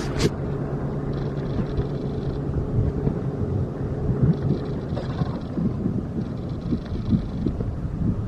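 Engine running steadily with a low, even hum, wind buffeting the microphone.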